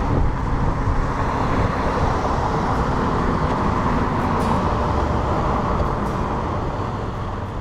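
Suzuki V-Strom 650 motorcycle under way, a steady rush of wind and engine and road noise that starts abruptly and fades down near the end.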